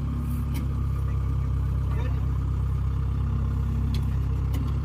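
Heavy diesel farm-machine engine running steadily with an even, low drone.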